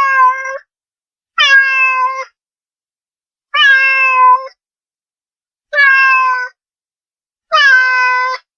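Domestic cat meowing: five separate meows, each just under a second long and at a steady pitch, about two seconds apart with silence between them.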